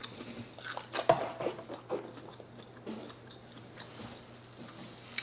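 Close-up mouth sounds of a person chewing seafood, with a few short clicks and smacks in the first couple of seconds before it settles quieter.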